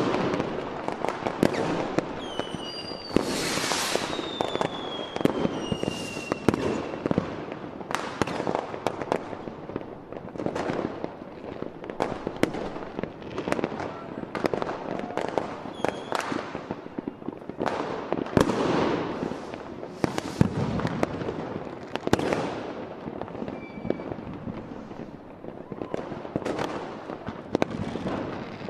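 Fireworks display: aerial shells bursting in frequent, irregular bangs with crackle. Between about three and seven seconds in, several whistles fall in pitch.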